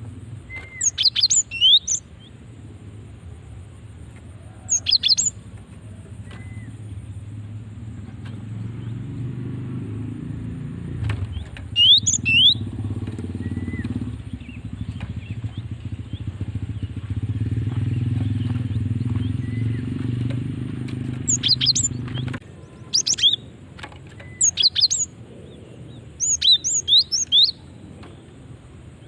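Female cinereous tit (gelatik batu) giving its call: short bunches of rapid high chirps, several times over, closest together near the end. This is the call a female uses to draw males and get other gelatik batu to answer. A low rumble runs under it and cuts off abruptly about two-thirds of the way through.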